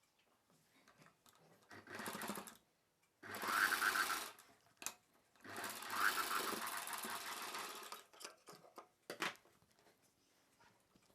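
Electric sewing machine stitching in three short runs, with a couple of clicks between, as the blouse's shoulder seams are joined.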